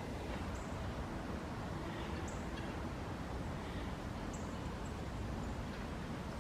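Woodland ambience: a steady low rumble and hiss, with a few short, high bird chirps scattered through it, about one every second or two.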